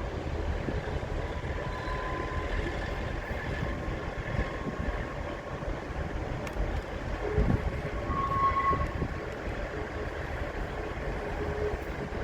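A train running on the rails with a steady low rumble, and a faint high tone that brightens briefly about eight seconds in.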